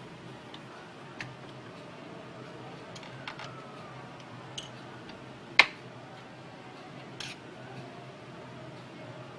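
A few scattered light clicks and taps, with one sharper click a little past halfway, over a faint steady low hum.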